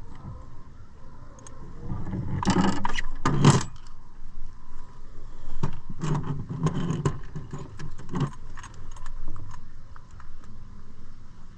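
Metallic jangling, rattling and knocking of gear being handled on a boat. It comes in two irregular bouts, about two seconds in and again about six seconds in.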